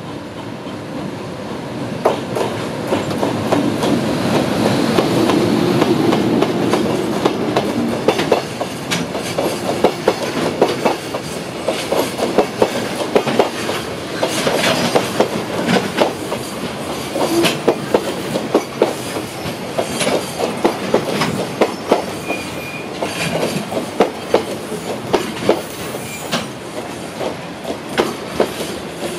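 Electric-hauled container freight train passing. The locomotive's running noise builds to a peak in the first several seconds, then the wagons' wheels clack over the rail joints in a steady stream of sharp clicks.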